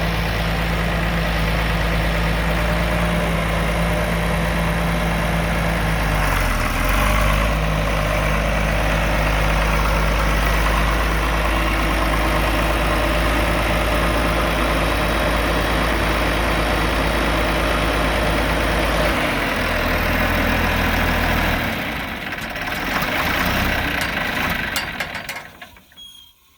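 John Deere 4230 tractor's six-cylinder diesel engine running steadily, its speed shifting about a quarter of the way in and again about two-thirds through, then dying away near the end.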